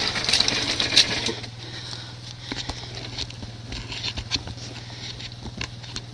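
Dirt bike engine idling as a low steady hum, with scattered sharp clicks and taps over it. The sound drops noticeably about a second and a half in.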